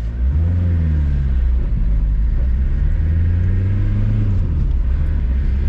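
MK2 Volkswagen Jetta's 1.6-litre diesel engine accelerating hard, heard from inside the car: the engine note climbs, drops at a gear change about a second and a half in, then climbs again.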